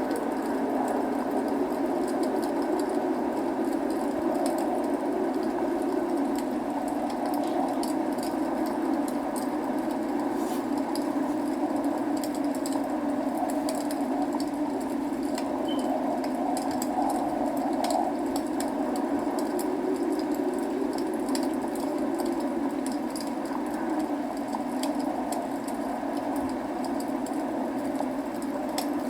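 Log fire crackling with many small sharp pops, over a steady hiss of falling rain.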